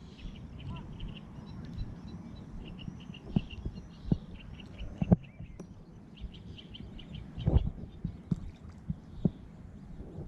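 Irregular soft knocks and a low rumble close to the microphone, with birds chirping in quick rapid series in the background, twice.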